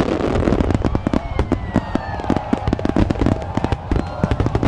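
Fireworks going off: a dense run of sharp cracks and crackling pops, with a whistle falling in pitch about a second in.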